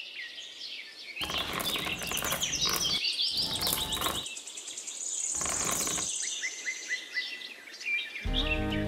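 Small birds chirping repeatedly in short high calls, broken by three stretches of rustling noise about a second long each; a background music track comes back in near the end.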